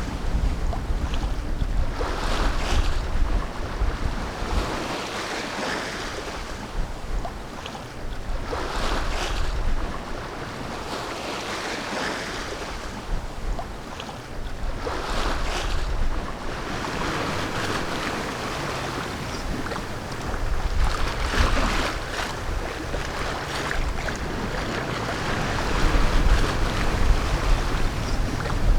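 Wind buffeting the microphone and water rushing and splashing past the hull of a sailing yacht under way, swelling in surges every few seconds.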